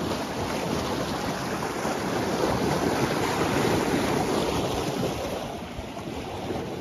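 Steady rushing of flowing river water, mixed with wind noise on the microphone.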